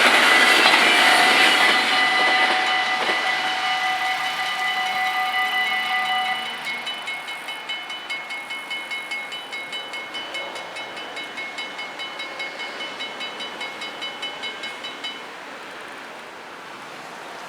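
The rush of a passing NS ICMm (Koploper) electric train fades away over the first couple of seconds while the level-crossing bells keep ringing. Some bells stop about six seconds in; the rest ring on in strokes about twice a second and stop about fifteen seconds in.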